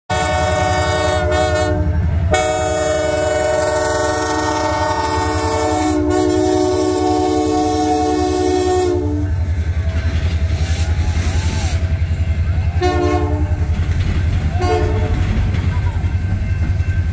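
Freight locomotive air horn sounding a long chord for about nine seconds, with brief breaks, as the train passes close by. It then falls silent, leaving the low, fast, even clatter and rumble of the passing cars on the rails, with two short horn toots near the end.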